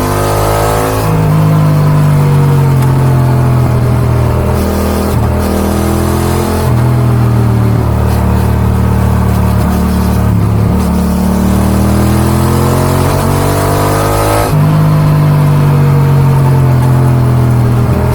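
Yamaha XSR 700's 689 cc CP2 parallel-twin engine, breathing through an Akrapovic dual exhaust, pulling and easing off on a winding road. The engine note rises and falls with the throttle, with a few sudden drops and jumps in pitch, over a steady rush of wind.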